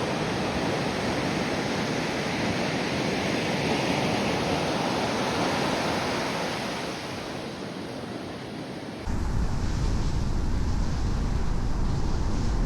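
Ocean surf: a steady wash of breaking waves that swells and then fades. About three quarters of the way through it cuts abruptly to the steady low rumble of car road noise.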